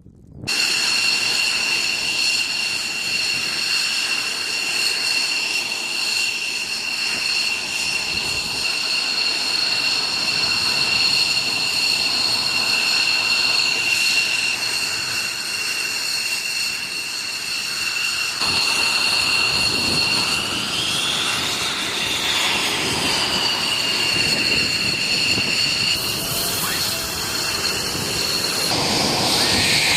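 Fighter jet engine running with a steady high-pitched whine over a rushing noise. About twenty seconds in, the whine rises and falls again as the engine's speed changes.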